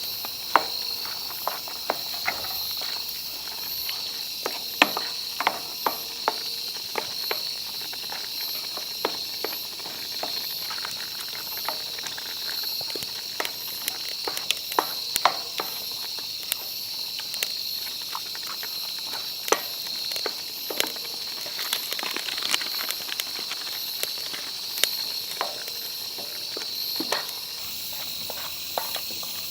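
Insects chirping in a steady, high, pulsing trill, over irregular sharp crackles and pops from a burning campfire.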